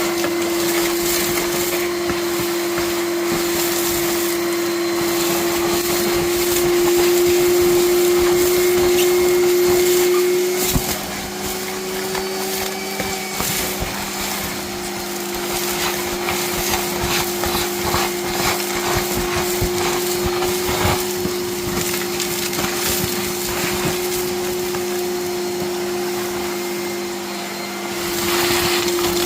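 Gutter vacuum running steadily with a whine, sucking mud and debris out of an open drain channel through the vac pole, with many small clicks and rattles of grit going up. About ten seconds in the whine shifts in pitch and the level drops a little, as the load on the nozzle changes.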